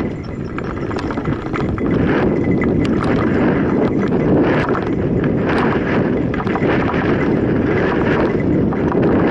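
Mountain bike riding down a rough dirt trail: the tyres running over dirt and the bike rattling and knocking over bumps, with wind on the microphone.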